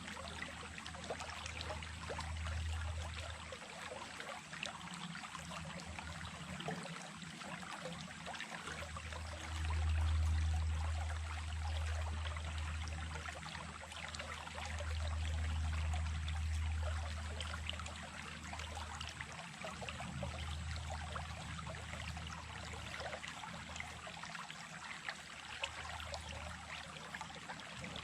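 Creek water running steadily, with a low rumble underneath that swells several times, loudest about ten seconds in.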